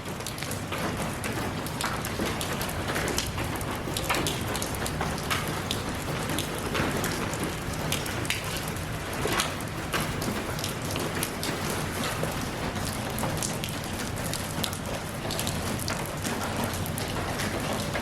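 Steady rain falling, with many separate drops striking close by as sharp ticks over the even hiss.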